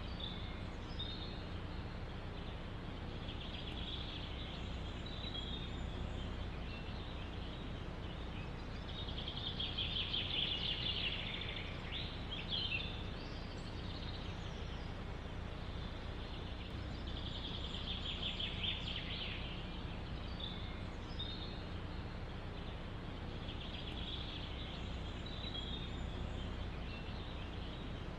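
Songbirds singing in a forest, rapid trilled phrases recurring every several seconds over a steady low rumble of background noise.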